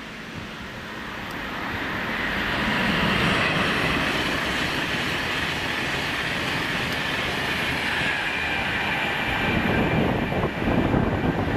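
A high-speed electric express passenger train runs through the station at speed without stopping: a loud rush of wheels on rail with a hiss on top, building over the first few seconds and then holding steady. Wind buffets the microphone near the end.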